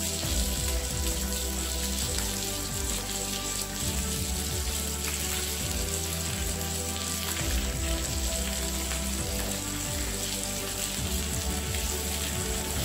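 Meat and vegetables sizzling steadily on an electric grill plate, with background music underneath.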